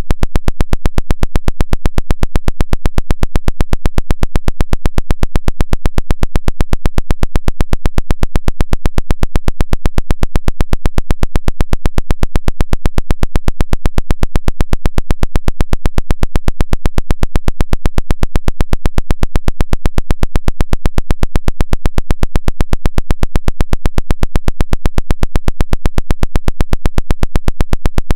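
Woodpecker-type radio signal: a rapid, evenly spaced train of sharp clicking pulses, several a second, repeating without change.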